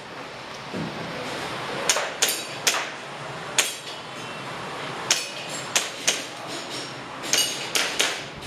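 Airsoft pistol firing a string of sharp shots during an IPSC practical shooting run, some in quick pairs and some in faster runs, with short pauses between groups.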